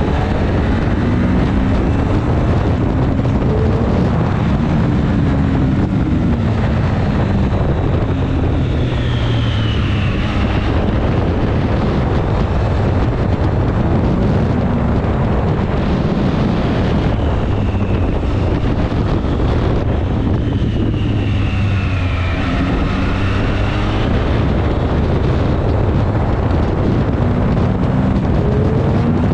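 Triumph Street Triple RS 765's 765 cc inline-three engine pulling hard in the low gears, its pitch rising and falling several times as the rider accelerates and backs off, with wind rushing over the microphone.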